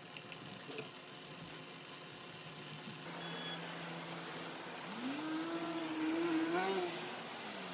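Food sizzling and crackling in a hot pan or on a grill for about three seconds. Then the sound changes abruptly to a wavering, gliding pitched sound lasting about two seconds.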